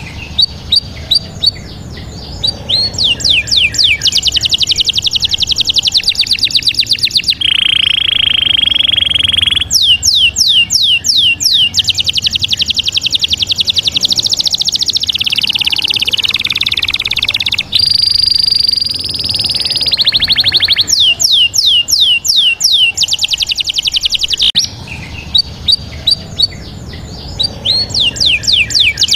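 Bird calls: rapid runs of high chirps and trilled notes, in several segments that change abruptly from one to the next.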